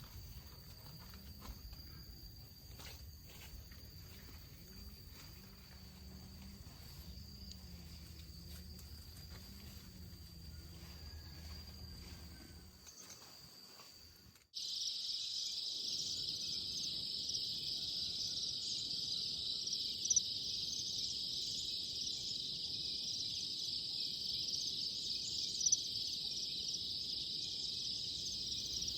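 Insects chirping in a steady high chorus, faint in the first half with a low wavering tone beneath. After an abrupt cut about halfway, the chorus is much louder and denser and holds steady.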